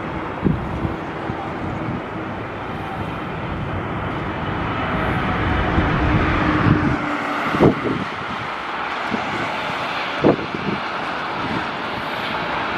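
Jet engines of a Boeing 777-300ER (GE90s) on landing in gusty wind, growing louder for about seven seconds and then easing. Wind buffets the microphone with a few sharp thumps.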